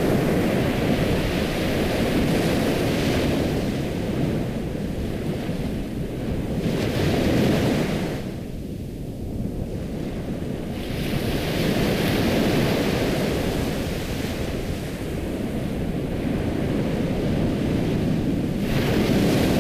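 Ocean surf: waves breaking and washing in, swelling and ebbing every few seconds, with a quieter lull about halfway through.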